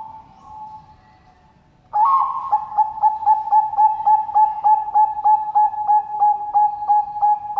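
Zebra dove (Bangkok perkutut) cooing: a soft coo early on, then about two seconds in a loud song begins, a fast run of short coos on one pitch at about three a second.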